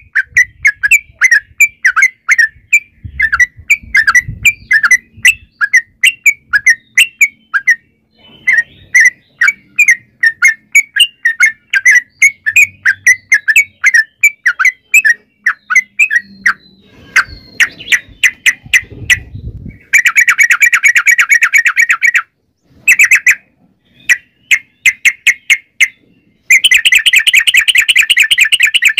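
Yellow-vented bulbul (trucukan) singing: a run of quick, sharp chirps at about three to four a second, then, from about two-thirds of the way in, very fast rolling trills, the longest near the end.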